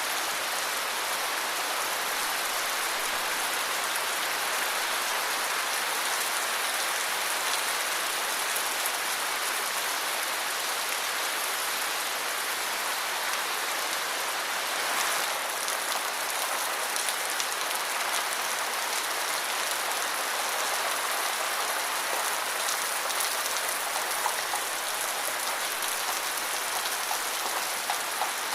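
Steady rainfall pattering on surfaces, an even hiss with scattered individual drop ticks.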